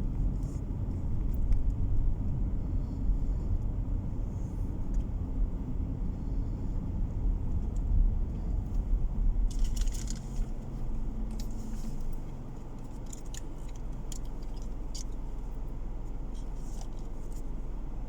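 Road and engine rumble of a car heard from inside the cabin while driving, with a few light rattles. The rumble is rougher and louder for the first twelve seconds or so, then drops to a lower, steadier level.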